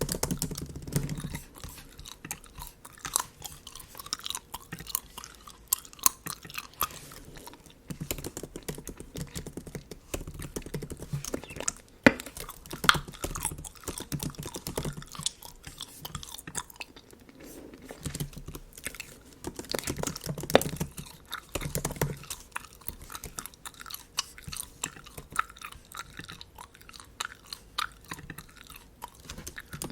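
Bubble gum chewed close to the microphone: irregular wet, sticky mouth clicks and smacks, with one sharper snap about twelve seconds in.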